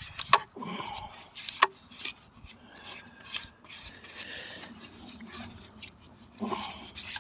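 Scraping and scrubbing around inside a removed engine sump pan, working sludge loose in a little petrol, with two sharp knocks against the pan in the first two seconds.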